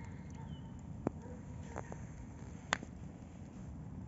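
Campfire crackling, with two sharp pops, the second louder. Faint whistled notes of nightingales sing behind it.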